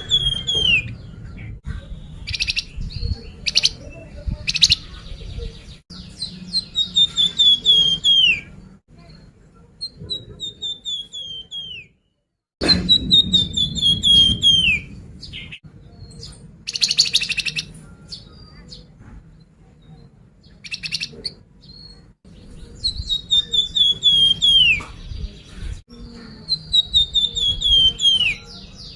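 Songbird known to Indonesian bird-keepers as flamboyan, singing a lure song: repeated phrases of quick notes sliding down in pitch, each about two seconds long, with short sharp chips in between. It is the 'pancingan' recording played to prompt caged birds to sing.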